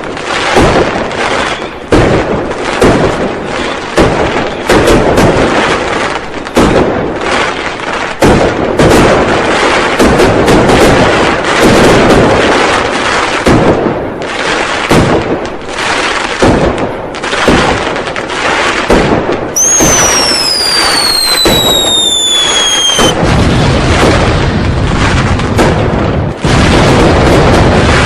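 Dense, continuous barrage of firecrackers and fireworks bangs, many overlapping. A falling whistle, like a whistling firework, sounds over them about twenty seconds in and lasts roughly three seconds.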